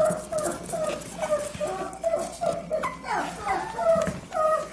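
A dog whimpering: a run of short whines, about two or three a second, some falling in pitch.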